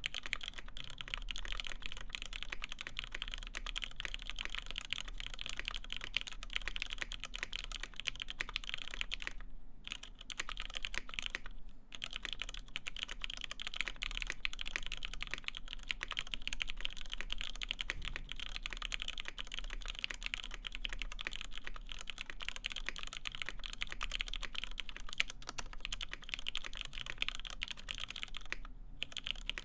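Continuous fast typing on a Duck Unicorn x Legend mechanical keyboard with lubed vintage West German Cherry MX Black linear switches, PBT keycaps and an FR-4 plate. The keystrokes run in an unbroken stream, with brief pauses about ten and twelve seconds in and near the end.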